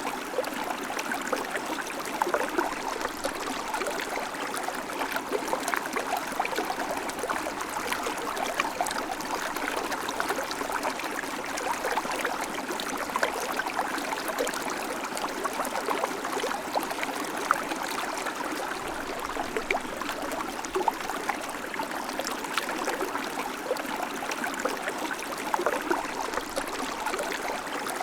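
River water flowing steadily over stones, a constant rushing with fine splashing and burbling.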